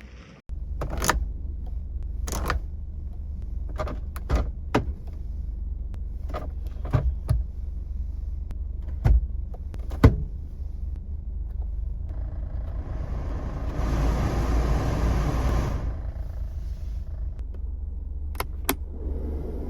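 Subaru Sambar Dias van running with a steady low rumble, with many sharp clicks and knocks scattered through it. A rushing hiss swells up for a few seconds past the middle.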